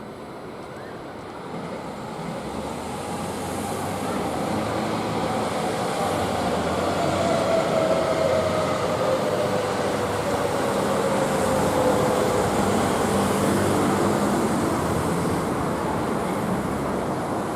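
Electric freight train passing, with locomotive and container wagons on the rails, growing louder over the first few seconds. A whine slides down in pitch, then the wagons roll on steadily.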